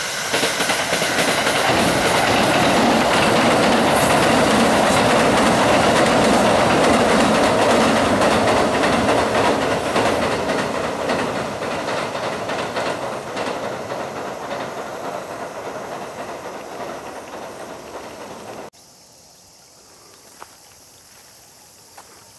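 Kintetsu Kyoto Line train crossing the Kizugawa railway bridge, its wheels clattering rhythmically over the rails with a heavy rumble. The sound is loudest in the first half, then fades as the train moves away, and cuts off suddenly near the end, leaving only a faint background.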